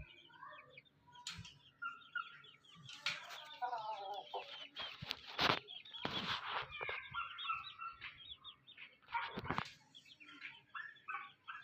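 Aseel chickens clucking, with many short high chirps throughout and a few brief louder noises.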